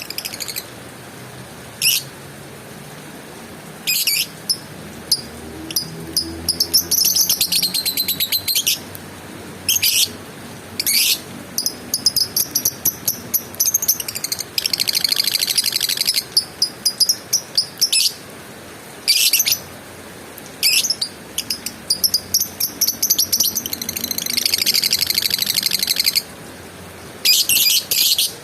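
Lovebird calling: short, sharp, high-pitched chirps again and again, broken by several rapid chattering trills lasting a second or two, the longest about halfway through and again near the end.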